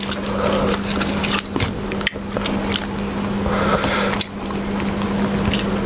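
Close-miked eating sounds: grilled chicken pieces being torn apart by hand and chewed, with wet mouth clicks and crackles throughout. A steady hum runs underneath.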